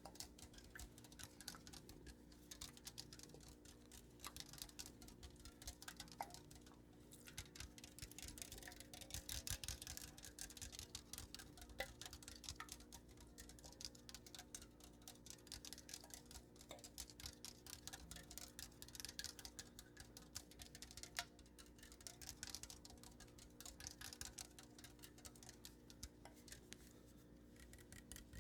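Fast, light ASMR tapping: a dense stream of small clicks with a few sharper taps among them, over a faint steady hum.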